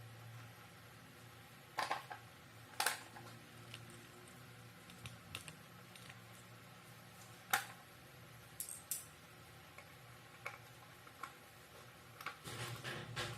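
Scattered small clicks and knocks of hard parts being handled while a desk fan is taken apart and worked on. A faint low hum runs underneath.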